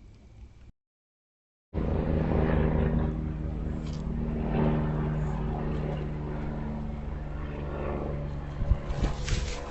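Steady mechanical drone of an engine or motor, made of several fixed tones, starting abruptly after a second of dead silence and slowly easing off. A few sharp clicks or knocks come near the end.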